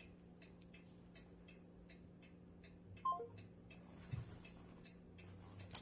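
Faint, even ticking, about two to three ticks a second, over a steady low hum. About three seconds in there is a short falling tone, and a second later a soft low thump.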